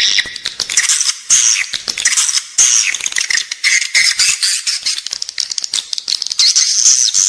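Edible-nest swiftlets chattering without pause: a dense, high-pitched mix of rapid clicking rattles and short curving chirps. This is the in-building swiftlet call played to lure the birds into a nesting house.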